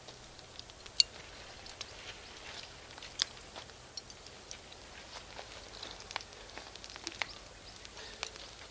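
Bonfire of Iwate cut charcoal and firewood crackling, with irregular sharp pops from the charcoal; the loudest pop comes about a second in and another strong one around three seconds in.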